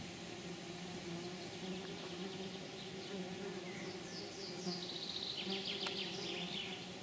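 Flying insect buzzing steadily and wavering, with a short burst of high, rapid chirps about four to six seconds in.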